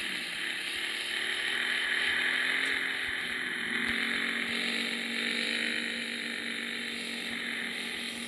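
Yamaha XJ6 motorcycle engine running at a steady, gently varying speed while riding, under a steady rush of wind on the microphone.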